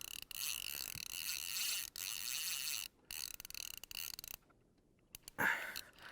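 Fishing reel drag buzzing steadily as a hooked tarpon pulls line off the spool, broken by brief dropouts about three seconds and four seconds in.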